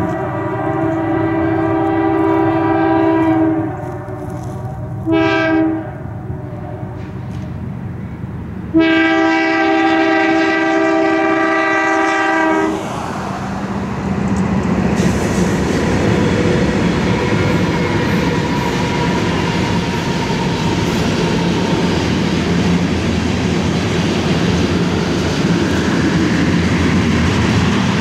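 Multi-tone air horn of a BNSF GE diesel locomotive leading a freight train. A long blast ends about three and a half seconds in, a short blast follows about five seconds in, and a long blast runs from about nine to thirteen seconds. Then the three BNSF GE locomotives pass with a steady engine rumble, and tank cars roll by on the rails behind them.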